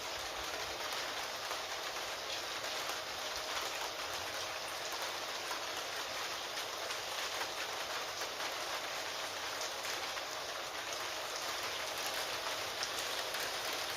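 Steady rain falling, a constant hiss of rain with many small drop ticks.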